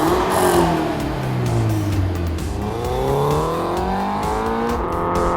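Scion FR-S / Subaru BRZ flat-four engine heard through a 3-inch stainless steel cat-back exhaust. The exhaust note drops in pitch as the revs come down over the first couple of seconds, then climbs steadily as the car accelerates, and levels off near the end. Background music plays underneath.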